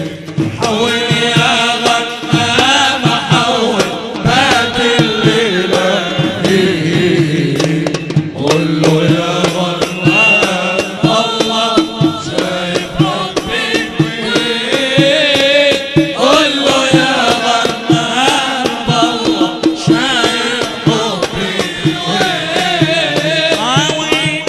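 Arabic wedding nasheed: a munshid chanting a melody over hand-drum percussion.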